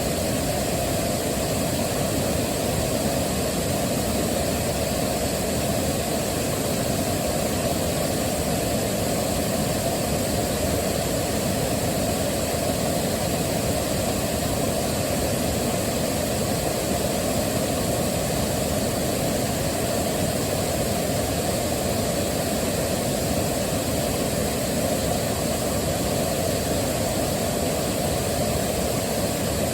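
Waterfall, water rushing steadily, with most of its weight in the low, deep part of the sound and no change throughout.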